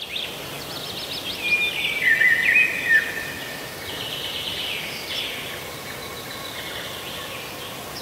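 Songbirds singing over a steady outdoor hiss, with a quick run of chirps and falling whistles loudest in the first three seconds, then fainter calls.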